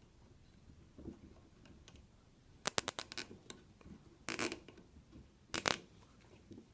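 Nylon zip tie being pulled through its ratchet head: a quick run of clicks, then two short rasping pulls about a second apart as it is drawn tight.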